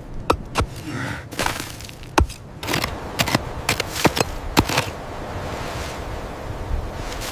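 Irregular sharp cracks and crunches over a steady rushing hiss. The cracks thin out after about five seconds, leaving the hiss.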